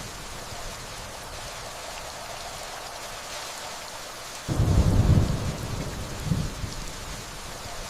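Steady rainfall with a roll of thunder that breaks in suddenly about halfway through, rumbles low, swells once more and fades away.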